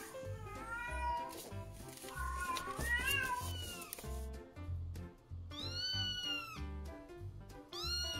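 Cat meowing several times, each meow rising and falling in pitch, over background music with a steady beat.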